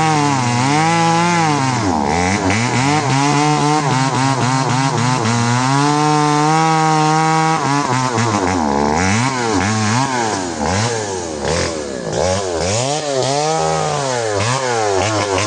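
Two-stroke chainsaw running at high revs, held steady for several seconds, then its engine speed repeatedly dips and recovers, rising and falling in pitch, as it works through wood.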